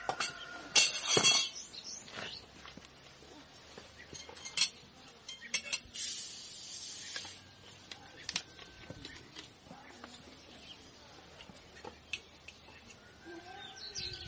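Scattered clinks and taps of dishes and utensils, with a louder clatter about a second in.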